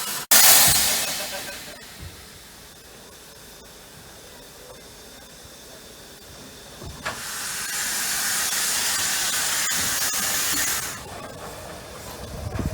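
Steam hissing from a Hunslet 0-6-0ST saddle tank steam locomotive. A sudden loud burst right at the start fades over a second or so, and a second steady hiss starts about seven seconds in, lasts about four seconds and then cuts off.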